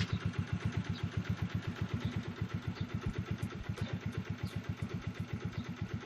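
Yamaha Mio Sporty scooter's single-cylinder four-stroke engine idling steadily with an even beat of about ten pulses a second. It runs smoothly, the loud crankshaft-area noise it had before the repair now gone.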